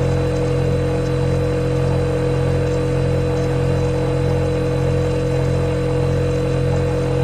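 Refrigerator running with a steady, unchanging hum: a low drone with a clear higher tone held over it.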